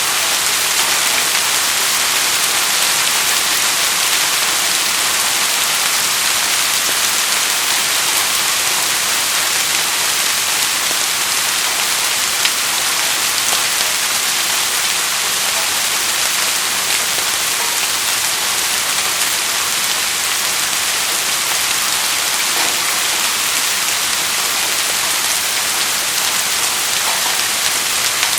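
Steady rainfall: a dense, even hiss of rain with fine drop ticks scattered through it and one slightly louder tick about twelve seconds in.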